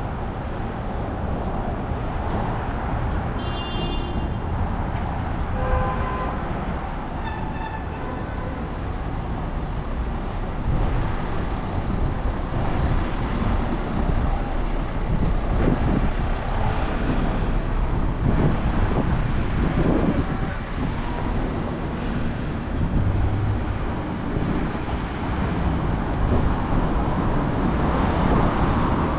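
City street traffic noise, a steady rumble of passing vehicles, with a brief pitched tone about six to eight seconds in.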